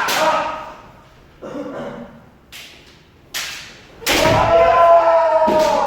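Kendo practice: sharp cracks of bamboo shinai striking, twice near the middle and again near the end, and a long drawn-out kiai shout starting about four seconds in.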